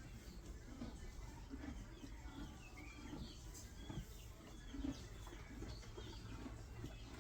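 Birds chirping and calling faintly in the background, short high chirps scattered throughout with lower repeated calls underneath.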